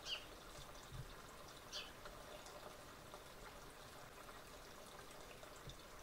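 Quiet garden ambience with a faint steady hiss, broken by two short high bird chirps, one right at the start and one just under two seconds in.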